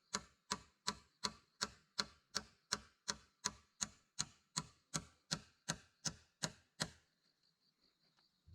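A blade chopping in fast, very even strokes, a little under three a second, that stop about seven seconds in.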